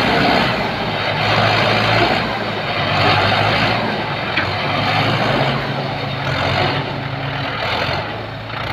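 Tractor engine running, a low steady hum under a broad rough mechanical noise.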